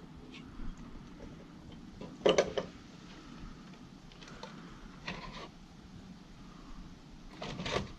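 Small parts of a disassembled vacuum cleaner being handled, making three short bursts of clicking and rattling: the first, about two seconds in, is the loudest, with others about five seconds in and near the end.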